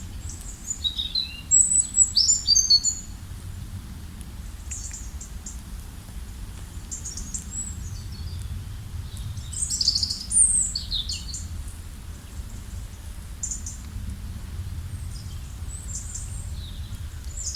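Songbirds chirping and singing in short, quick, high notes, busiest in clusters about two seconds in and again around ten seconds, over a steady low background rumble.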